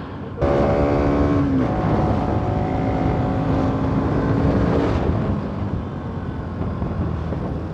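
Bajaj Pulsar NS200's single-cylinder engine pulling steadily under throttle over wind rush, the note stepping slightly lower about a second and a half in, then easing off and getting quieter about five seconds in.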